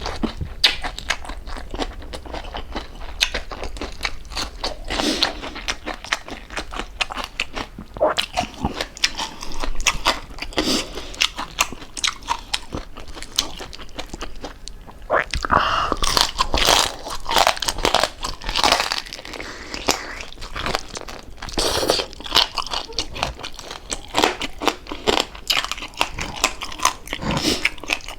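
Close-up crunching and chewing of crispy deep-fried pork jowl, with many sharp crackling bites one after another.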